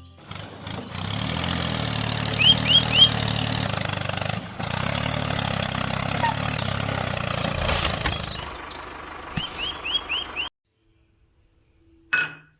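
A tractor engine idling steadily, with birds chirping in short runs over it. The engine cuts off suddenly about ten seconds in, and a single sharp click follows near the end.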